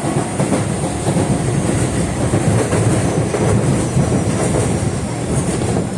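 Osaka Metro 22 series subway train running between stations, heard from inside the car: a steady, loud rumble of wheels on track.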